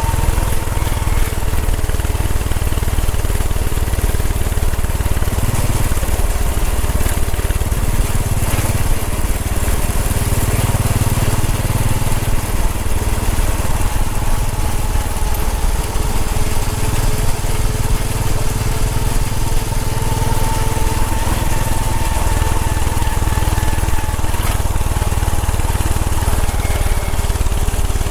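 Royal Enfield Bullet 500's air-cooled single-cylinder four-stroke engine running steadily while riding, with wind rushing over the microphone.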